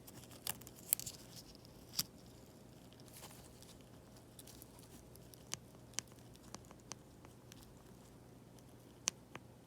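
Scattered faint clicks and light taps, irregularly spaced, from an iPad mini 5's mechanical home button being pressed to check that it is seated in the right spot after its bracket was reinstalled.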